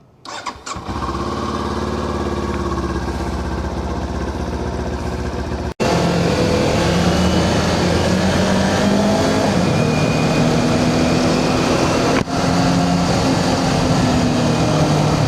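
Kawasaki Ninja 400's parallel-twin engine coming on with a few short bursts about a quarter second in, then running steadily. The sound breaks off abruptly near six seconds, comes back louder, and dips briefly again near twelve seconds.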